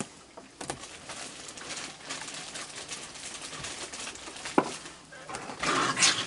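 Raccoons feeding, with scattered clicks and soft chittering calls, then a short loud hissing squabble near the end.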